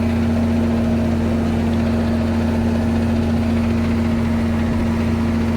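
Ford 9700 tractor's six-cylinder diesel engine running at a steady speed while it drives a manure spreader through the PTO: an even drone with a strong steady hum.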